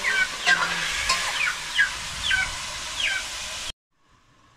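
A bird's short falling chirps, repeated about twice a second, over the steady sizzle of chicken frying in a pot; the sound cuts off abruptly near the end.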